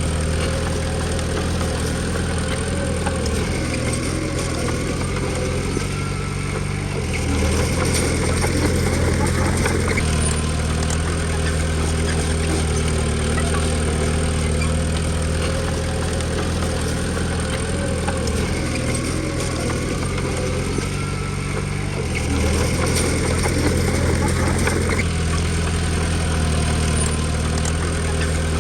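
Komatsu D20P bulldozer's diesel engine running steadily under work, its engine note shifting up and down every few seconds as the load changes.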